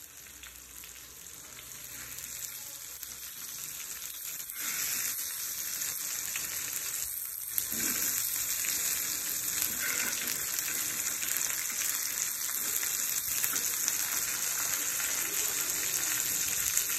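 Coated fish slices shallow-frying in oil on a flat iron tawa: a steady sizzle that grows louder over the first several seconds, then holds.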